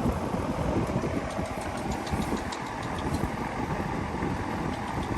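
Wind buffeting the phone's microphone: a steady, uneven low rumble with no voices over it.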